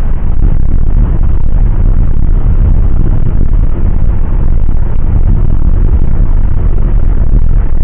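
Airliner cabin noise: a loud, steady roar of the jet engines and airflow, heaviest in the low rumble and near the top of the recording's range.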